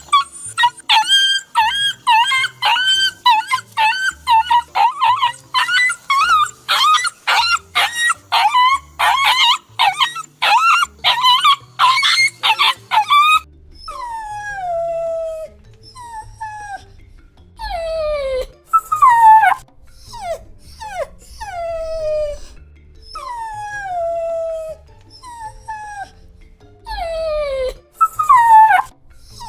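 A dog crying. First comes a rapid run of short, high-pitched whimpering cries, two or three a second. About halfway through, it changes to longer whines that each fall in pitch, coming every second or two.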